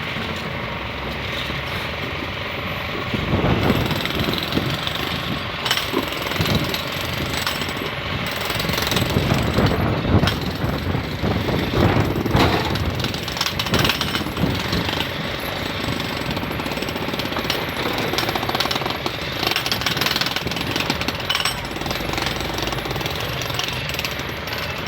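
Continuous rapid jackhammer-like hammering from power tools used in railway track repair, getting louder with harder blows from about three seconds in.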